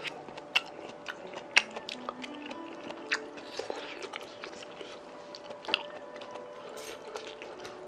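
Close-miked eating of Chinese hot pot food: chewing and biting, broken by four sharp crunches or clicks, the loudest about a second and a half in. Soft background music runs underneath.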